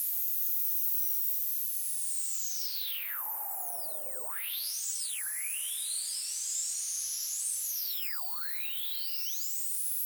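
White noise run through swept filters in a Max/MSP patch. Several whistling tones glide up and down over a hiss, swooping low about four and eight seconds in.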